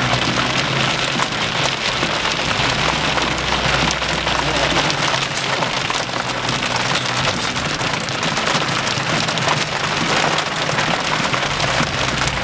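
Heavy rain pelting down on a surface, a dense, steady hiss.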